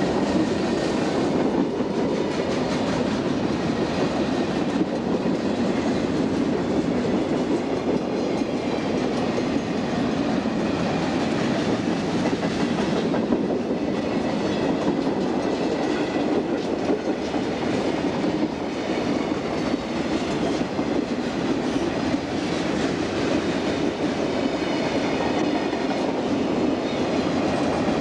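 Freight train rolling past, a steady noise of steel wheels on the rails.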